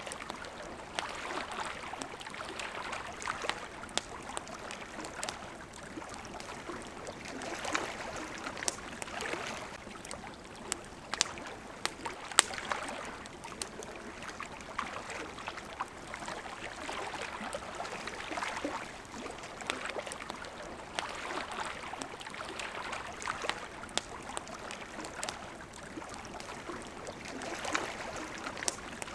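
Water lapping and splashing at the shore in slow swells, with the sharp pops and crackles of a burning wood campfire scattered throughout; the loudest pop comes about twelve seconds in.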